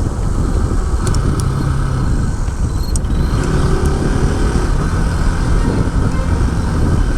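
Motorcycle engine running steadily on the move, under a constant rush of wind noise.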